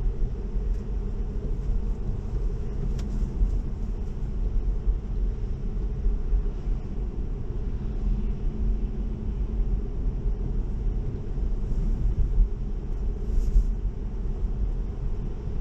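Steady low road and tyre rumble inside a moving Tesla's cabin, driving on rain-wet roads, with no engine note from the electric drive.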